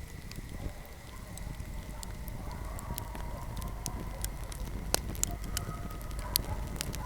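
Fireplace fire crackling: a steady low rumble of flames with scattered sharp pops, the loudest about five seconds in.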